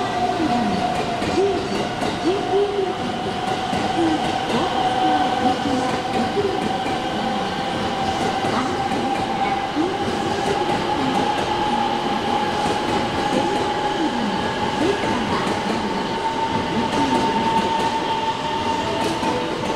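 Railway station track noise as an electric commuter train approaches: steady rail running noise and clatter, with one clear high tone that rises slowly in pitch.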